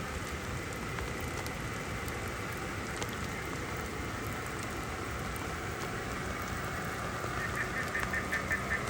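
Steady rain falling. Near the end, a rapid run of short, high calls comes in, about seven a second.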